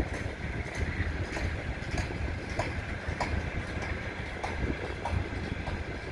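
Freight train wagons rolling past, their wheels clicking over the rail joints at an even pace, a little under two clicks a second, over a steady low rumble.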